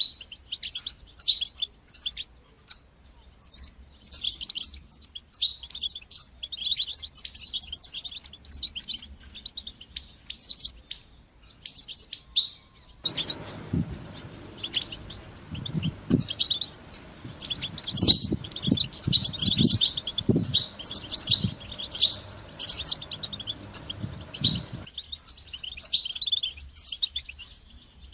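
European goldfinch singing in quick twittering chirps and call notes. About halfway through, a lower noisy layer with soft thumps joins underneath, and it stops again near the end.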